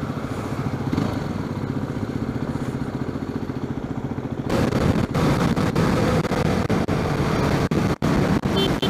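Motorcycle engine running with an even, steady pulse. About four and a half seconds in it gets louder and rougher, with added rushing noise.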